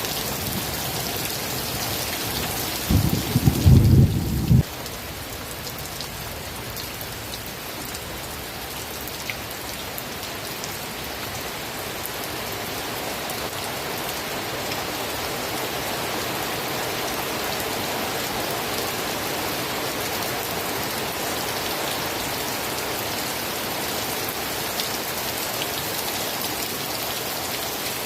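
Steady rain falling, an even hiss throughout. About three seconds in, a loud low rumble of thunder lasts under two seconds and cuts off abruptly.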